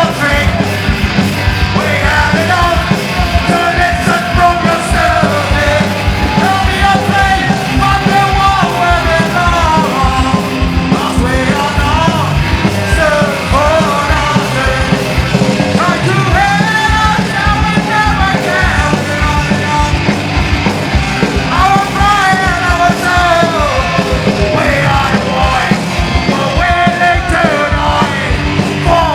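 Punk rock band playing live, with steady driving drums under shouted, sung vocals.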